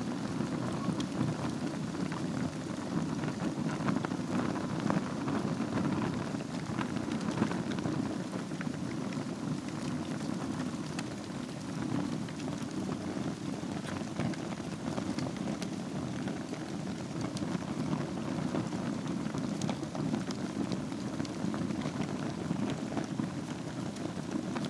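Wood fire burning in a fireplace: a steady low rush of flames with frequent small crackles and pops.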